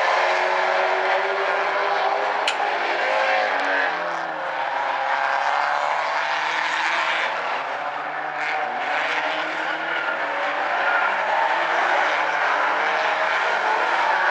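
Several Stinger-class race cars running laps of a figure-8 track, their engines rising and falling in pitch as they accelerate, lift and pass, over a steady roar of tyre and engine noise.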